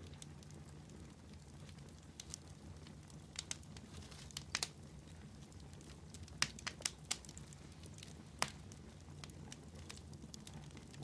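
Wood campfire crackling, with irregular sharp pops every second or so, over a steady low rumble.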